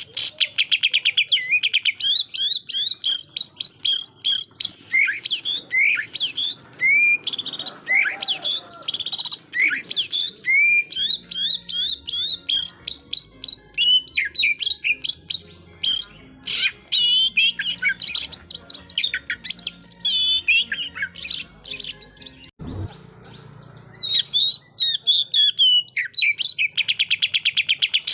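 Oriental magpie-robin (kacer) singing a long, varied song of loud whistles, chirps and slurred notes, broken by fast rapid-fire trills of repeated notes. Near the end there is a short break in the song with a single low knock.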